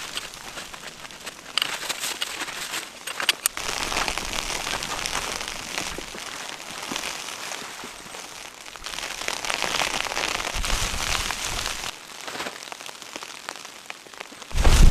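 Blizzard snow driven by wind against the tent fabric: a continuous pattering hiss that swells and eases in gusts. A few sharp ticks come about two to three seconds in.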